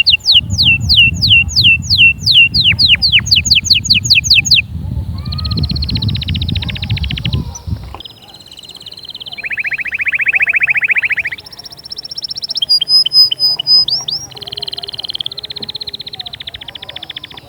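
Domestic canary singing: a fast run of repeated falling whistled notes, then a string of rapid trills that change pitch every second or two, including a lower buzzy roll near the middle. A low hum underneath stops about eight seconds in.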